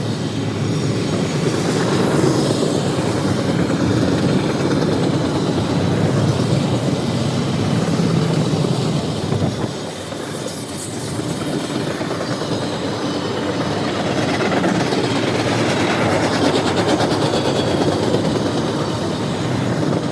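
Freight train cars rolling past at close range, a steady rumble of wheels on rail with clickety-clack from the rail joints.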